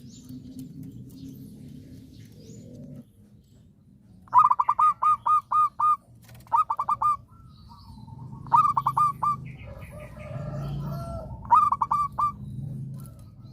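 Zebra dove (perkutut) singing in four bursts of quick, clipped cooing notes, the first holding about seven notes, over a low rumble in the background.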